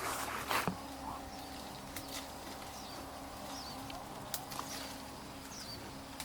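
Bird chirps: several short, high calls falling in pitch, a few seconds apart, over a faint steady hum, after a brief scuffing noise about half a second in.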